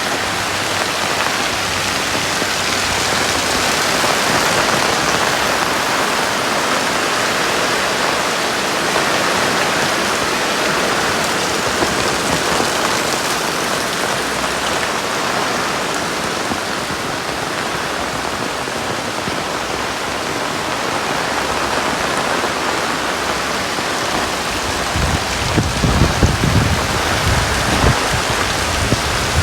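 Heavy rain pouring steadily. From about 25 seconds in, low gusty rumbles of strong wind buffet the microphone.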